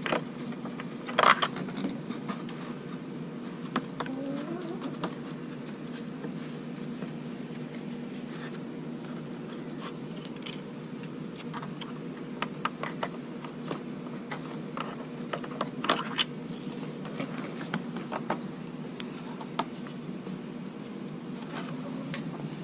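Scattered clicks and scrapes of hands working on a Dirt Devil vacuum cleaner's plastic parts while clearing debris from its clogged air passage, over a steady low hum.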